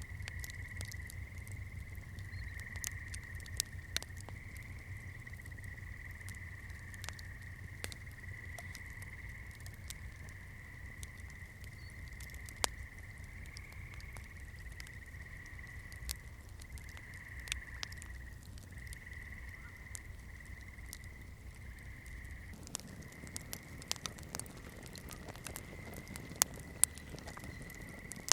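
Wood campfire crackling: sharp, irregular pops and snaps over a low rumble, with a steady high-pitched tone behind. The rumble drops away about three quarters of the way through while the crackles go on.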